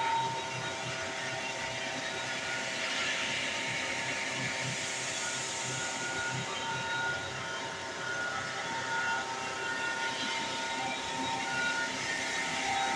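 Hair dryer running: a steady whooshing blower noise with a rough, pulsing low rattle underneath.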